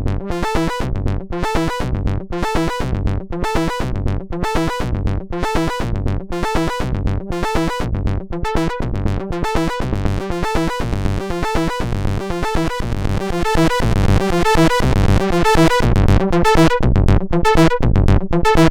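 Moog Sub Phatty analog monophonic synthesizer playing a repeating sequence of short, evenly spaced notes, about four a second. The pattern grows louder and brighter about two-thirds of the way through.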